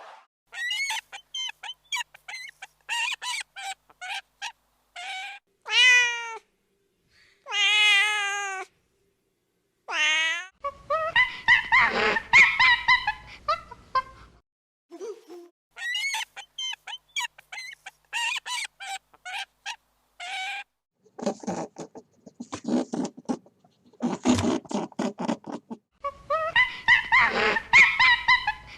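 Domestic cats meowing: many short mews in clusters, with a few longer drawn-out meows and brief pauses between them.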